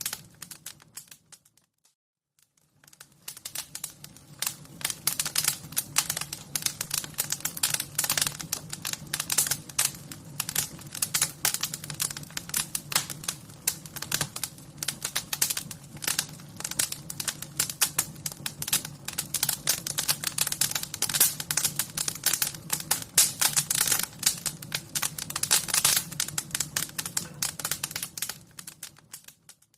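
Fire crackling: a dense, irregular stream of sharp pops and snaps over a low steady rumble. It dies away briefly about a second in and swells back about two seconds later.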